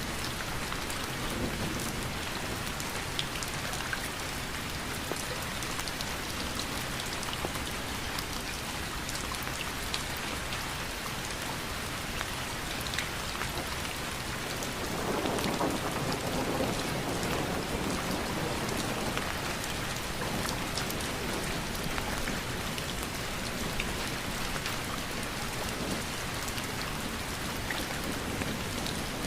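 Steady rain falling, with many small drop ticks throughout. About halfway through, a low rumble swells for a few seconds and then fades back into the rain.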